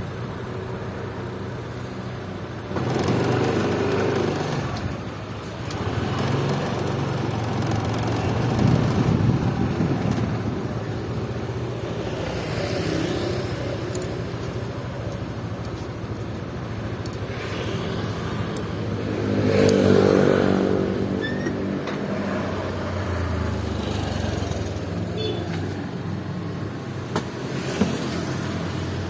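Motor vehicle engines running steadily, swelling louder three times as engines come close or rev: around 3 to 5 seconds in, around 9 seconds, and most strongly around 20 seconds.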